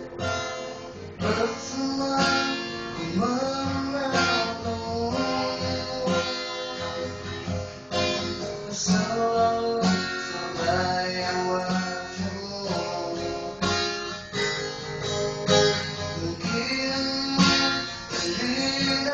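A man singing a pop melody to a strummed acoustic guitar.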